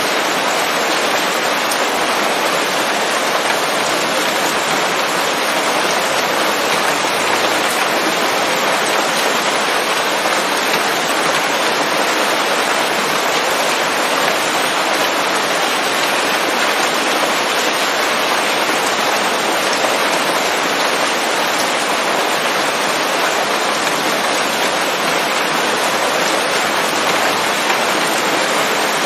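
Steady rain falling on leaves, a dense even patter that stays level throughout.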